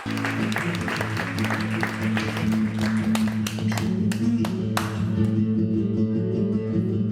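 Small audience clapping at the end of a song, the claps thinning out and stopping about five seconds in, while an acoustic guitar keeps sounding low notes underneath.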